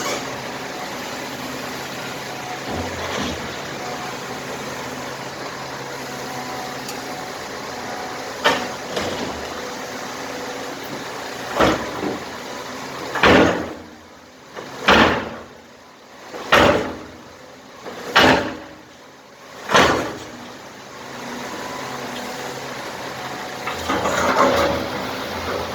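Cat 326 excavator's diesel engine running steadily on a demolition job. About halfway through come six loud, sudden heavy knocks, evenly spaced about one and a half seconds apart, with a smaller knock a little before them.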